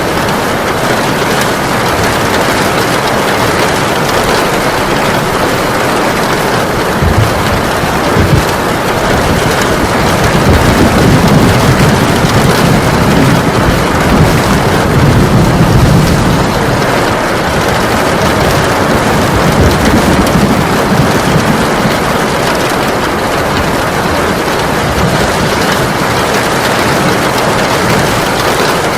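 Heavy rain pouring steadily. A low rolling rumble swells up under it from about seven seconds in and fades again a few seconds past the middle.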